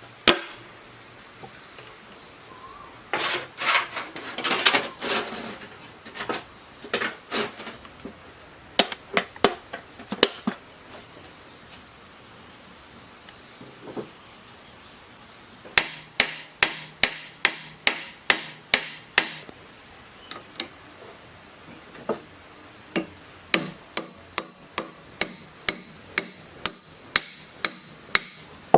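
Hammer blows: scattered knocks, then two runs of quick, even strikes at about three a second.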